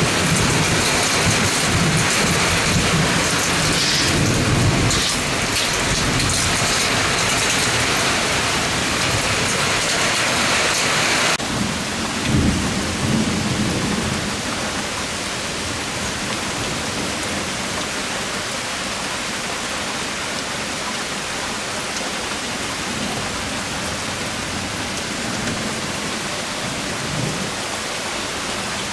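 Heavy thunderstorm downpour, rain pouring down steadily, with low rumbles of thunder a few seconds in and again around twelve seconds. About eleven seconds in, the hiss of the rain drops suddenly and goes on softer and steadier.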